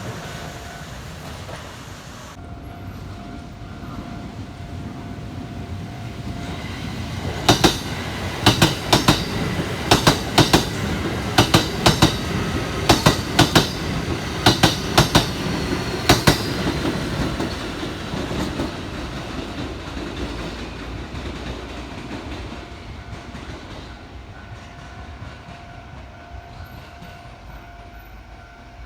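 Kintetsu electric train passing, a steady rumble with the wheels clattering over the rail joints in quick pairs for about ten seconds midway, then fading away.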